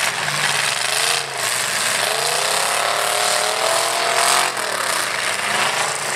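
Demolition-derby pickup truck engines running hard under rough, rattling engine noise; one engine revs up over about two seconds and then drops off.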